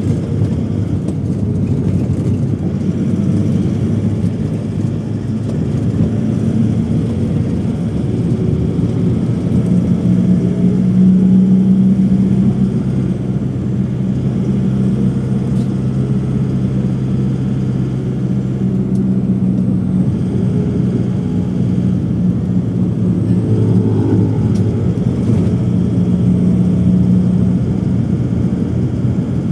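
Steady low rumble of a vehicle heard from inside its cabin, engine hum with a couple of held low tones that grow a little stronger partway through.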